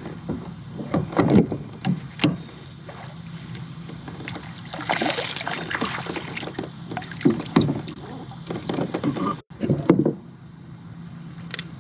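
Knocks and bumps on a kayak, with a burst of splashing about five seconds in, as a hooked bass is landed, over a steady low hum.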